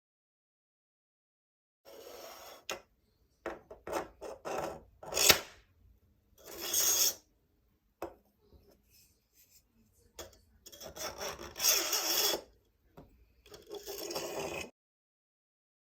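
3D-printed plastic fidget Christmas tree being worked by hand: its plastic parts rub and rasp against each other in short, irregular bursts.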